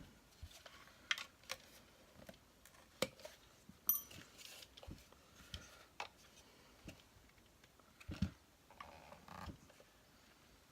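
Faint, scattered clicks and taps of small plastic caps being prised off a Hoover Turbopower Junior upright vacuum's housing, with a sharper knock about eight seconds in.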